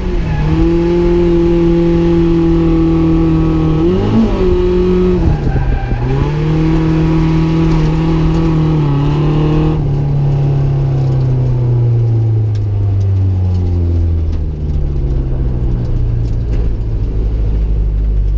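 Nissan 240SX drift car's engine held at high revs through a drift, dipping briefly twice, then winding down steadily over the last several seconds as the car slows.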